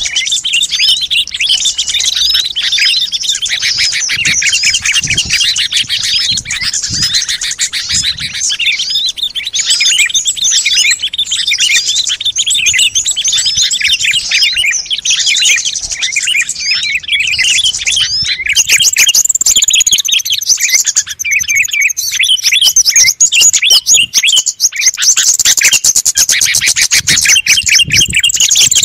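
A dense chorus of many small songbirds chirping and trilling at once, calls overlapping with no gap, growing a little louder with a high thin whistle added about two-thirds of the way through. It is a lure call made to draw small wild birds in.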